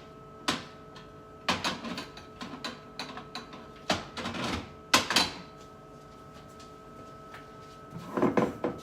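Food containers and packages being handled and set down on refrigerator shelves: scattered knocks and clicks with bursts of rustling, the loudest about five seconds in and again near the end, over a faint steady hum.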